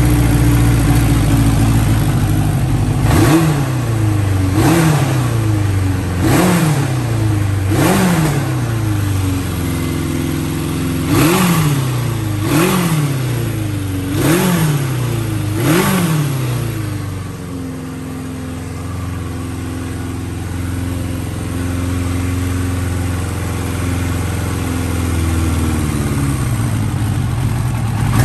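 Honda CB900F's air-cooled inline-four breathing through an aftermarket muffler, blipped eight times in two sets of four, each rev rising sharply and falling back, then settling to a steady idle before revs rise again near the end.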